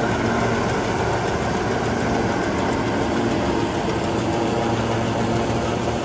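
Farm tractor engine running steadily, driving a forage chopper in the field.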